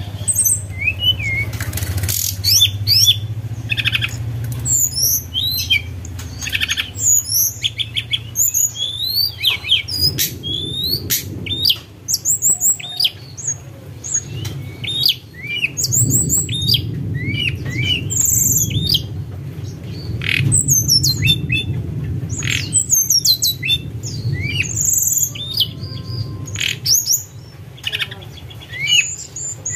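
Tledekan gunung songbird singing its fluty 'sulingan' song: quick runs of short, high whistled notes that slide in pitch, repeated again and again with brief gaps, over a low rumble.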